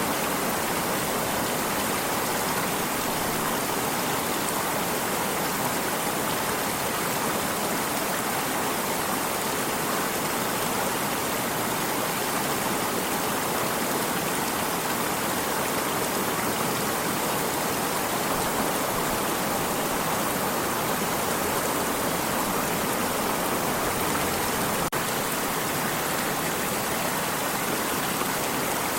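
Water of a stream flowing steadily: an even rushing with no breaks or changes.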